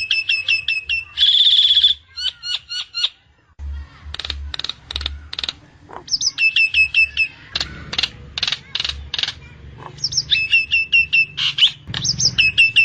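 Nias hill myna calling. It gives quick runs of about six whistled notes that each drop in pitch, a loud harsh buzzing call about a second in, and sharp clicking calls in between.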